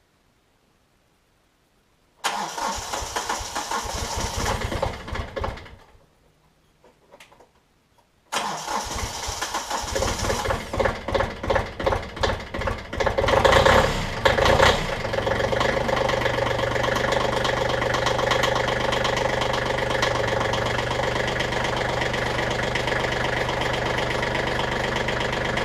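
Kioti CK20S compact tractor's diesel engine cold-starting reluctantly at about 30°F after a month unused. The starter cranks for about three seconds and stops. A few seconds later it cranks again, and the engine catches about halfway through and settles into a steady idle.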